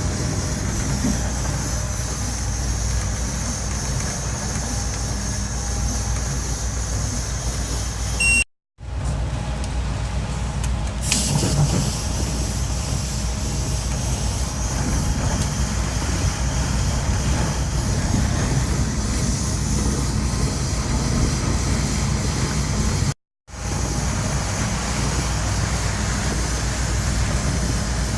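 A train running along a railway line: a steady low rumble with a hiss over it. It breaks off completely twice for a moment.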